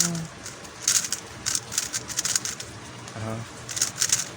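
MoYu Huameng YS3M MagLev speedcube being turned quickly, its unlubricated layers giving off irregular runs of sharp clicks and clacks. A brief low hum sounds right at the start and again about three seconds in.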